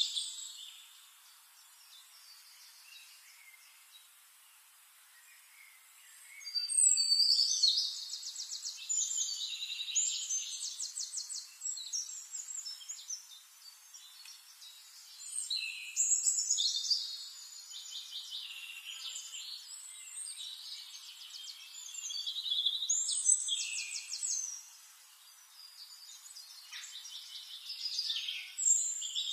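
Songbirds singing: high phrases of rapid trills, coming in bursts every few seconds after a quiet opening of about six seconds.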